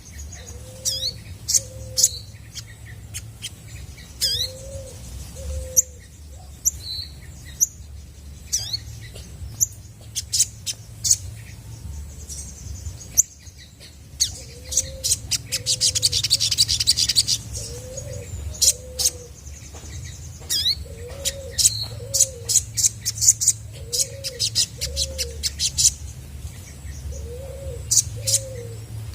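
Olive-backed sunbird calling: quick, sharp, high chirps repeated throughout, with a dense buzzy trill about halfway through.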